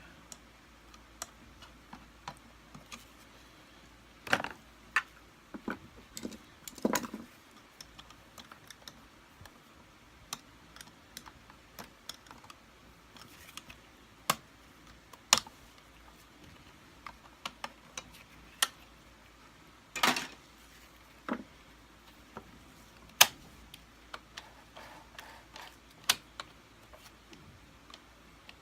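Irregular sharp clicks, taps and small knocks of hard plastic parts and hand tools being worked as the on-off switch is prised off a Kirby Sentria II vacuum's plastic body, with a few louder knocks among them.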